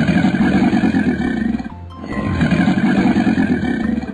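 Crocodile roar sound effect: two long, rough growls with a short break about halfway, over background music.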